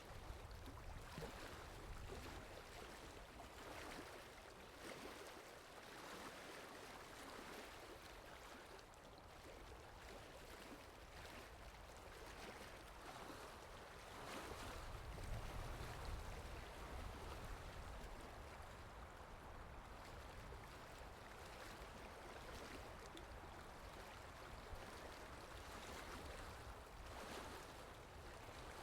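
Quiet, steady rainfall ambience in a forest: an even patter of water with no music audible, and a soft low rumble swelling up about halfway through.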